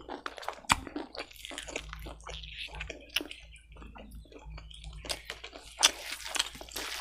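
Close-miked chewing of boiled fatty pork and rice: a run of wet mouth noises with irregular sharp clicks, the loudest snaps about a second in, around three seconds in and near the end.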